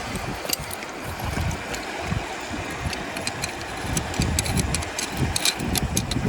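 Water sloshing and gurgling, with small stones clicking and rattling, as gold-bearing material is sucked and scraped out of a bedrock crevice with a hand suction tube. The clicks come thicker in the second half.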